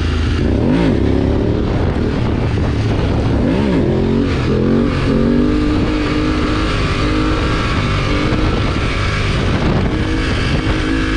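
BMW motorcycle engine revved sharply twice, rising and falling in pitch, then accelerating hard with the pitch climbing in steps as it shifts up through the gears.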